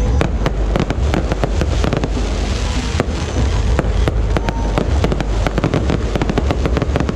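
Fireworks display going off in quick succession: many sharp bangs and crackles, several a second, over a continuous low rumble.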